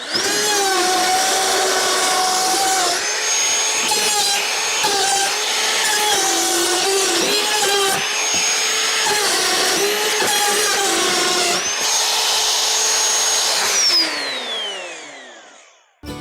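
Electric power tool running under load, its motor whine dipping and recovering in pitch over and over as it works into the heater's packaging. Near the end it is released and winds down with a long falling whine.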